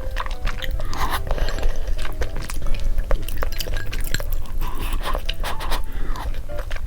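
Close-miked eating sounds: a utensil scraping and clinking against a dish, with chewing, as in a mukbang, in many short clicks and scrapes throughout.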